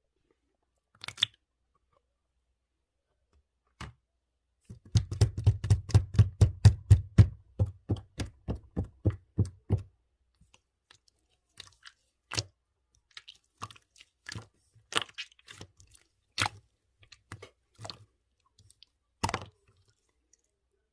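Clear slime being squished and pressed by hand, giving sharp wet clicks and pops. A fast run of pops lasts about five seconds, then single pops come every second or so.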